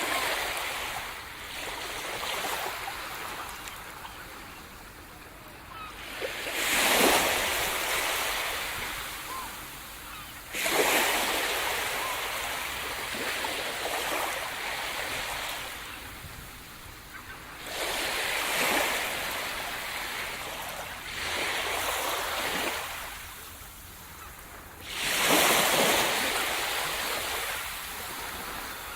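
Sea surf on a shore: waves break every three to four seconds, each one a sudden rush of noise that washes out and fades. The heaviest breaks come about a quarter of the way in and near the end.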